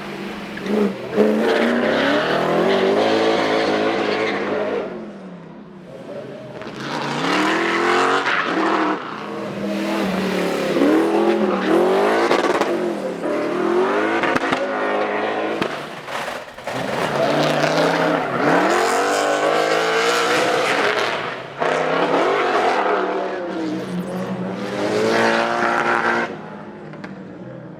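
Competition cars driven hard in several separate runs, engines revving up and down through the gears with tyres squealing as they slide.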